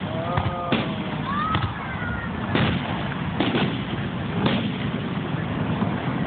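Fireworks going off: a string of sharp bangs about once a second, two of them in quick succession midway.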